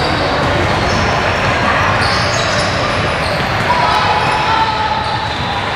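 Basketball game in a gym: a basketball bouncing on the court amid a steady din of spectators' and players' voices.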